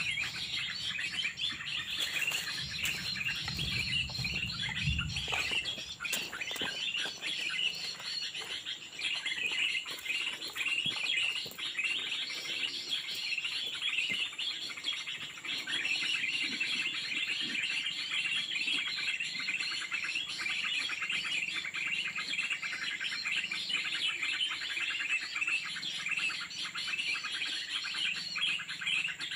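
Small songbirds chirping and twittering in a dense, unbroken chatter, with a low rumble during the first few seconds.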